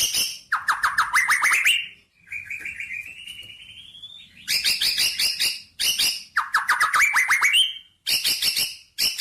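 Songbird singing in short, fast trilled phrases of rapidly repeated notes, each phrase rising in pitch at its end, with a quieter, slower rising trill a couple of seconds in.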